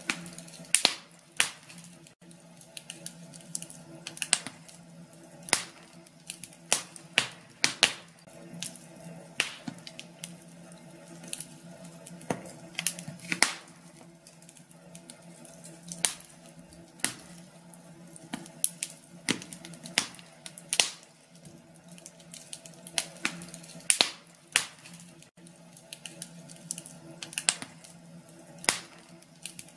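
Wood fire crackling in a fireplace: irregular sharp pops and snaps, several of them louder, over a faint steady low hum.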